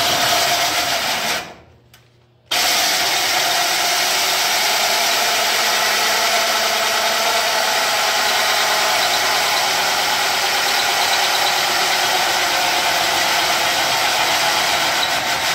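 Drill driving a hole saw through steel sheet metal: a short run, a brief stop about two seconds in, then a steady run of cutting. The hole saw is dull and the bit wobbles, which slows the cut.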